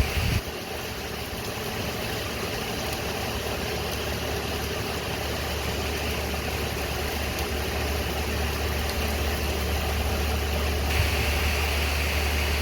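A vehicle engine idling: a steady low hum under a soft hiss.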